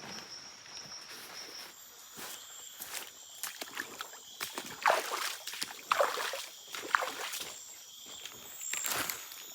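Irregular rustling, crunching and sharp clicks of someone moving about and handling gear on the forest floor, loudest about halfway through, over a steady high insect drone.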